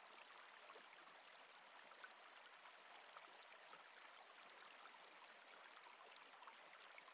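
Faint, steady sound of a flowing stream or river, water babbling and trickling.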